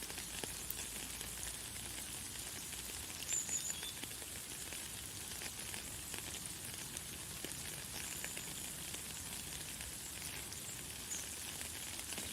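Light, fine rain falling in a steady hiss of many small drop ticks. A few short, very high bird chirps come through, about three seconds in and again near the end.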